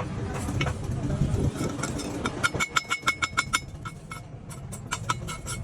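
A fast run of light metal-on-metal strikes, about eight a second with a clear ringing tone, from about two seconds in, then a few scattered strikes near the end. A low rumble runs beneath at the start.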